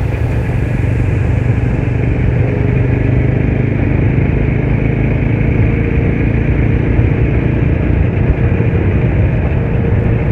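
Motorcycle engine running steadily while the bike is being ridden.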